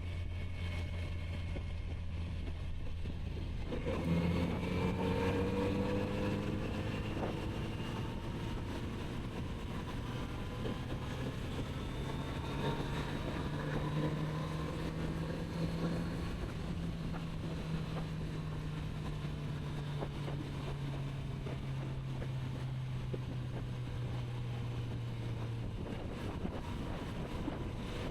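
Kawasaki Z900RS's 948 cc inline-four motorcycle engine heard while riding, with wind rushing past. The engine note jumps up and gets louder about four seconds in as the throttle opens, holds a steady cruising note with small rises and falls, then drops lower near the end as the rider eases off.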